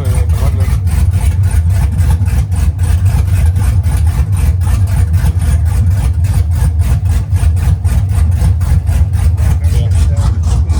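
Cammed 5.3-litre LS V8 running on open headers with no exhaust fitted, loud and steady with a choppy pulse about five times a second.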